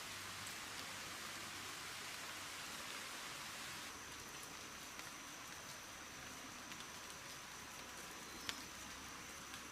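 Steady rain falling, an even hiss with a few sharper drop taps, one louder tap near the end.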